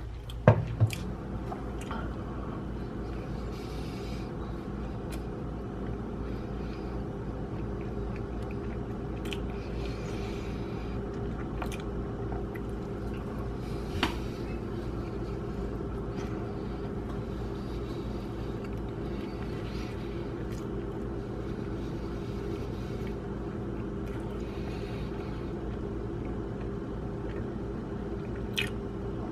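Close-miked chewing of a soft bread sandwich, with wet mouth sounds coming and going, over a steady low hum. A few sharp clicks, the loudest about a second in and one about midway.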